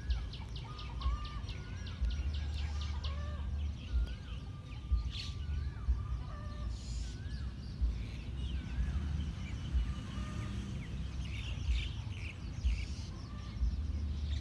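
Several birds calling: short whistled notes that rise and fall, repeated throughout, with a quick run of high ticking chirps in the first couple of seconds. Under them runs a steady low rumble with irregular louder pulses.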